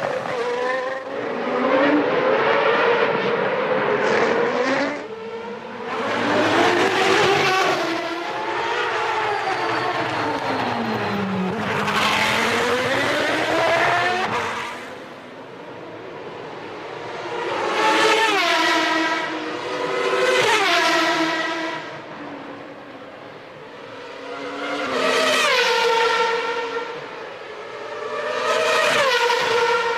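Early-1990s Formula One cars racing past one after another, their engines revving high and rising in pitch through the gears, then dropping in pitch as they brake and downshift. There are about half a dozen loud passes, each swelling and fading within a few seconds.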